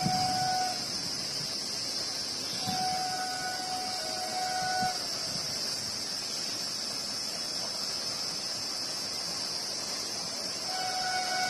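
Vande Bharat Express train horn sounding in long, steady blasts. One blast ends just after the start. A second, from about two and a half to five seconds in, drops in pitch partway through. A third starts near the end. A steady high hiss runs underneath.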